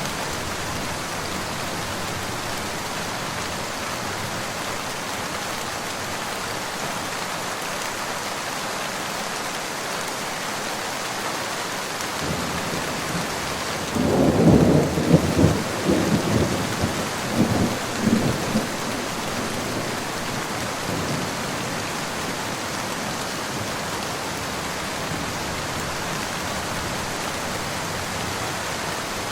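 Steady rain falling throughout, with a roll of thunder about halfway through: it starts low, swells to several loud rumbling peaks over about five seconds, then dies away.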